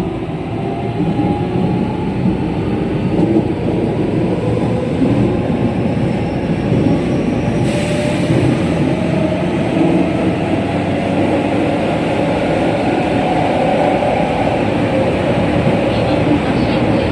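Running noise inside a JR West 207 series electric train: wheel-and-rail rumble with the whine of its traction motors, which keep their original pitch, slowly rising as the train gathers speed. A short burst of hiss comes about halfway through.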